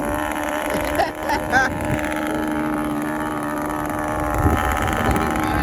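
Small nitro glow engine of an RC model airplane running steadily at high speed, holding one even pitch.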